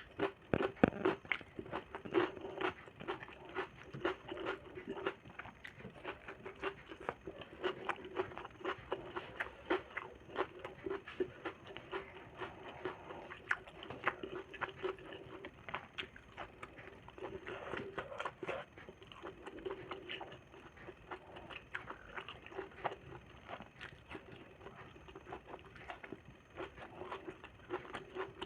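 A person chewing and smacking food, with many short irregular mouth clicks and smacks.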